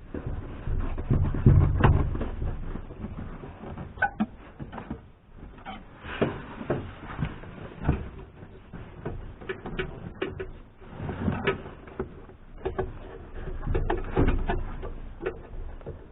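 Irregular knocks, clicks and rustling of a car's interior trim being worked on: the headliner and plastic trim pieces handled and pried at their clips.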